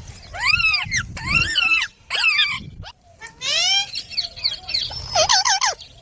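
Indian ringneck parakeet calling: a run of about six short squawks, each arching up and down in pitch, with one longer rising call a little past the middle.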